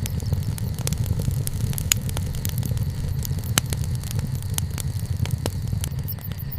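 Campfire burning: a steady low rumble with frequent crackles and snaps throughout, and two sharper pops about two and three and a half seconds in.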